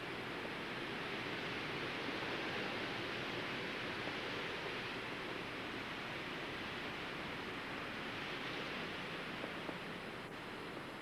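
Blizzard wind blowing steadily, a broad rushing noise that swells slightly a couple of seconds in and eases a little near the end.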